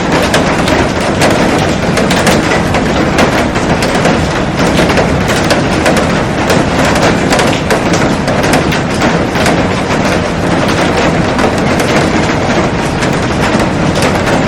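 Heavy rain falling on a glass roof and garden, a loud, steady, dense clatter of drops striking the glass.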